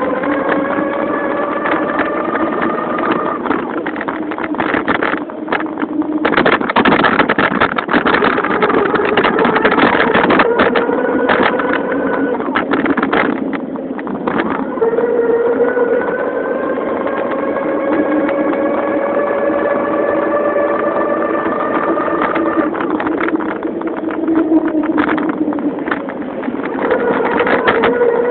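Motorized bicycle under way: a steady pitched drone whose pitch rises and levels off as speed changes. A stretch of rattling and clatter starts about six seconds in and lasts several seconds before the drone comes back.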